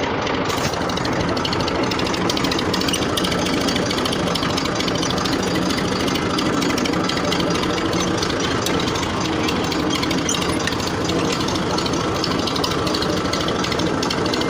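A 1978 model 135 tractor's engine idling steadily with a rapid, even clatter.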